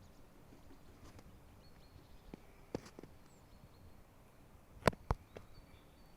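A few footsteps, spaced unevenly, with two loud ones close together near the end, over quiet outdoor ambience with faint high bird peeps.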